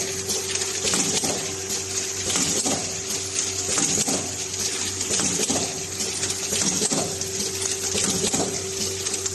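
Automatic filling and packaging machine running, with a steady motor hum and a regular mechanical clatter about once a second as it cycles.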